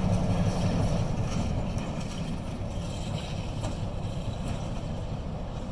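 Diesel locomotive engine running during car switching, a steady low rumble that eases off slightly.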